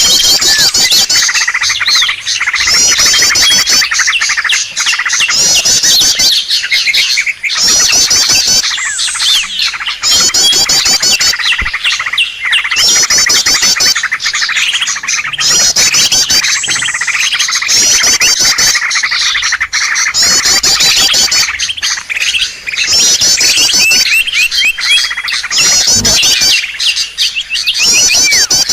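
Many small songbirds chirping and trilling at once: a bird-lure (pikat) call recording used to draw in wild small birds. Rapid high trills come in short bursts every couple of seconds over a steady mass of chirps.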